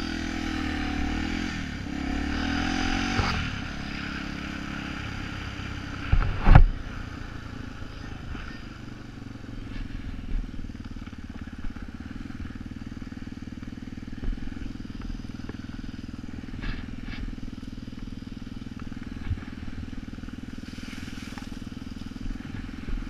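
Yamaha TTR250 dirt bike's single-cylinder four-stroke engine running while riding a trail. It revs up and eases off in the first few seconds, then pulls at a steadier pace. A sharp knock comes about six and a half seconds in.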